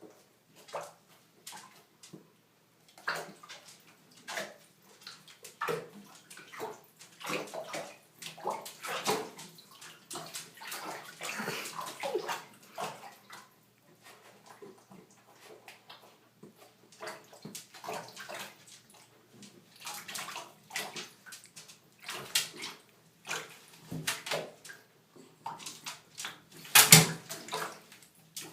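Water splashing and sloshing in short, irregular bursts, as in a bathtub.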